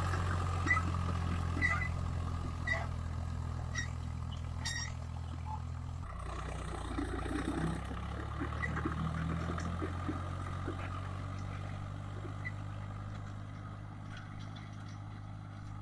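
Swaraj 744 FE tractor's three-cylinder diesel engine running steadily while pulling a disc plough. Short sharp ticks come about once a second for the first five seconds, and the engine sound fades gradually near the end.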